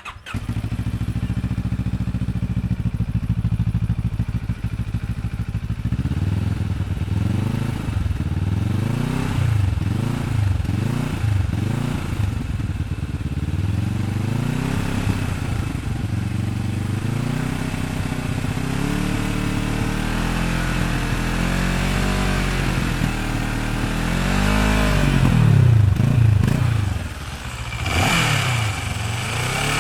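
Benelli TRK700's water-cooled 693cc two-cylinder engine running in neutral. It idles steadily for the first few seconds, then is revved again and again in short blips that rise and fall. Near the end comes a longer, louder rev.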